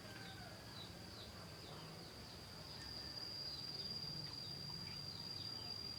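Small aviary birds chirping, short falling chirps repeated about twice a second, over a steady high insect trill that grows louder about halfway through.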